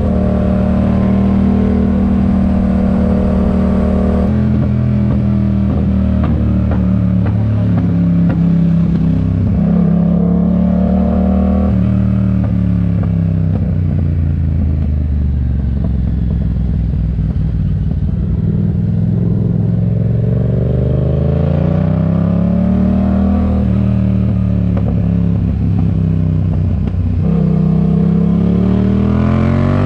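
Yamaha MT-07 parallel-twin engine through a RoadsItalia aftermarket exhaust, pulling and easing off on the road. Its pitch steps and climbs through gear changes, with long rising runs near the end.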